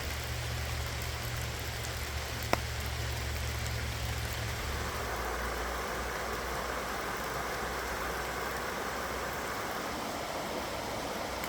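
A vehicle engine idling with a low steady hum and a single sharp click, then the engine stops about four and a half seconds in, leaving steady rain.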